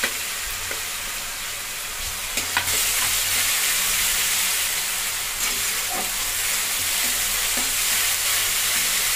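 Onion paste with a little chilli paste frying in hot oil in a metal kadai: steady sizzling, a little louder about two and a half seconds in, with a spatula scraping and knocking against the pan now and then as it is stirred.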